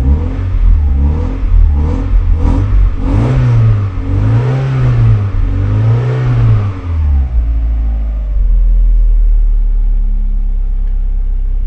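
Vauxhall C20XE redtop 2.0 16-valve four-cylinder engine revved repeatedly with throttle blips, its pitch rising and falling several times. It settles back to a steady idle about seven and a half seconds in.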